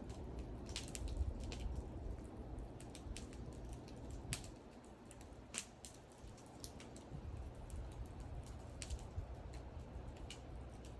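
Wood fire crackling: sharp, irregular pops and snaps, a few of them louder, over a low steady rumble.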